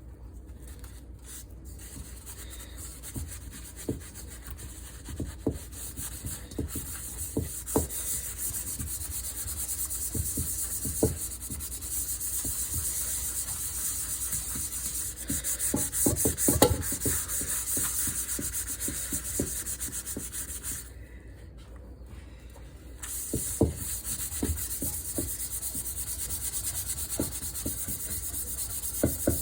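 Scrubbing a rusty pan: a steady scouring hiss with scattered small knocks against the pan. It stops for about two seconds two-thirds of the way through, then resumes.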